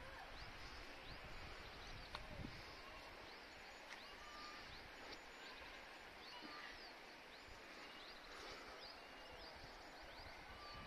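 Faint bird chirping: many quick, high chirps repeated one after another over a quiet, even background.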